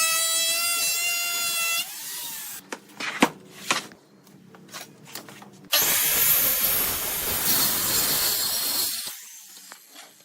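Workshop power tools on wood: a motor whines steadily for about two seconds and stops, a few sharp knocks follow, then a tool works the wood with a loud rushing noise for about three seconds before fading.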